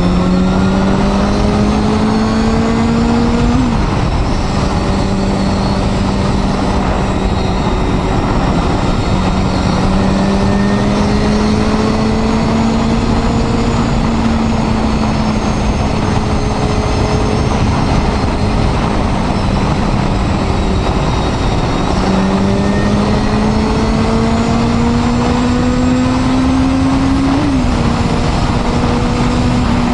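Honda Hornet 250's inline-four engine under way, pitch climbing as it revs and snapping down on upshifts about 4 seconds in and again near the end, with a long steady cruise between and a dip and climb around two-thirds through. A steady rush of wind noise runs under it.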